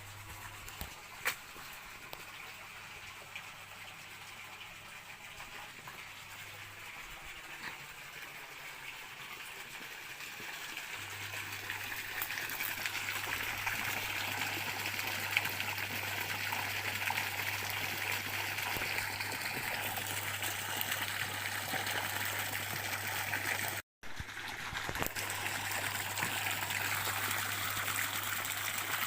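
Water running in a stream, a steady rushing and trickling that grows louder about twelve seconds in. It cuts out for an instant near the end, then resumes.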